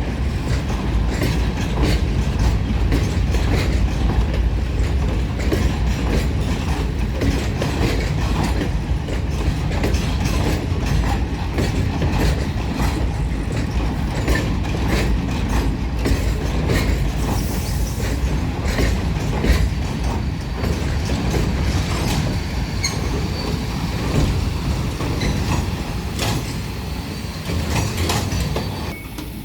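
A train running past, its wheels clattering over the rail joints in a continuous loud rumble. A thin high wheel squeal joins in the second half, and the sound eases slightly just before the end.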